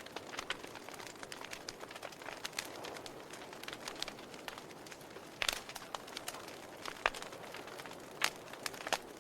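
Wood fire in a fireplace crackling: irregular sharp pops and snaps over a steady soft hiss, with louder pops about five and a half, seven and eight seconds in.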